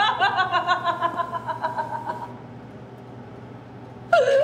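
A woman laughing, a fast run of chuckles that tapers off about two seconds in, leaving a low steady hum; near the end a sudden loud vocal cry breaks in.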